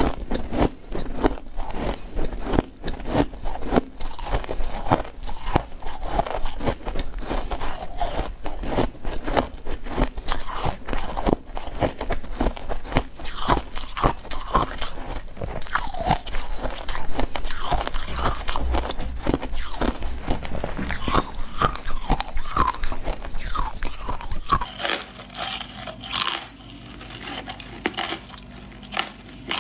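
Freezer frost being bitten and chewed close to the microphone: a dense, rapid run of crisp crunches. The crunching turns quieter about 25 seconds in.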